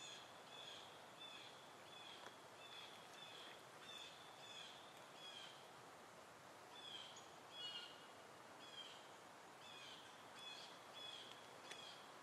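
A bird repeating a short, high chirp about twice a second, with a brief pause midway, over a faint steady hiss.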